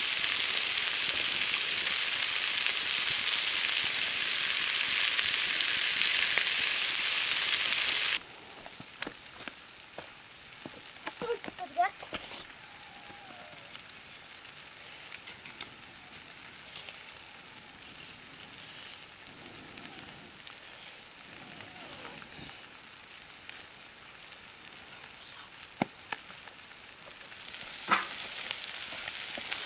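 Curry sizzling and frying in hot oil in a pan, an even hiss that cuts off abruptly about eight seconds in. A much quieter stretch follows with scattered light clicks and knocks. Near the end the sizzling rises again.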